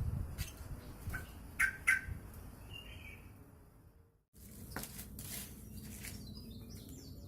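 Yellow-vented bulbul giving short, sharp chirping notes at irregular intervals, over a low background rumble. The sound cuts out completely for a moment a little past halfway.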